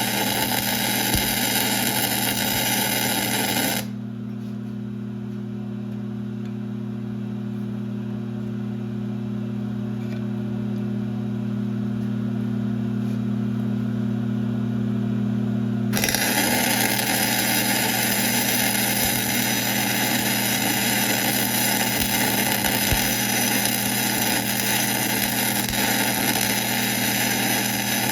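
1966 LeBlond geared-head lathe running steadily with a hum, boring out a wheel hub. A harsh hiss over the hum stops abruptly about four seconds in and comes back just as suddenly about twelve seconds later.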